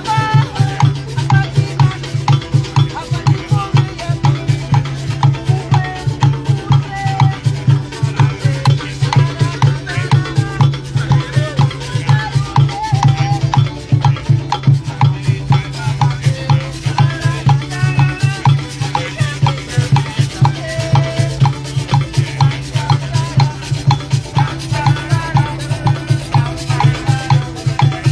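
Live folk music with a fast, steady drum beat and shakers rattling along with it.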